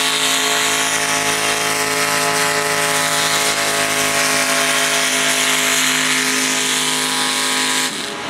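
Mini modified pulling tractor's engine running loud at steady full throttle during a pull, the pitch holding constant. The engine sound cuts off sharply near the end.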